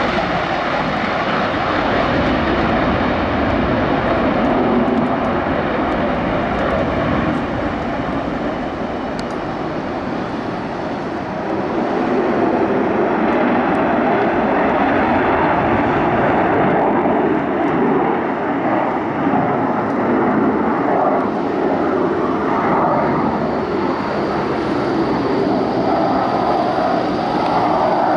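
Continuous loud jet noise from Blue Angels F/A-18 Hornets flying practice passes. It eases slightly about a third of the way in, then builds again.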